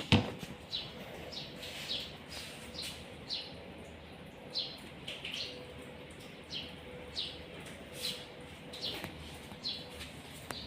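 A bird calling over and over with short chirps that slide downward in pitch, roughly one or two a second. A sharp knock sounds right at the start.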